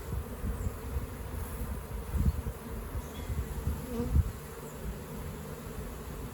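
A swarm of honeybees buzzing in a steady hum, with a few low bumps around two and four seconds in.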